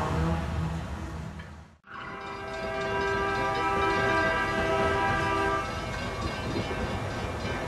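Diesel locomotive horn fading away as the train passes. After a brief cut, a steady horn tone sounds for a few seconds over the rumble of the passing train.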